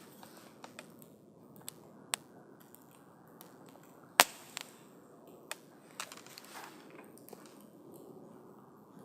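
Wood campfire crackling: irregular sharp pops and snaps over the low, steady rush of the flames, with one much louder pop about four seconds in.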